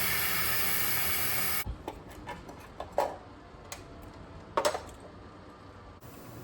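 A steady hiss that cuts off suddenly about a second and a half in, followed by a few sharp knocks and clinks of hard objects being handled, the loudest two near the middle.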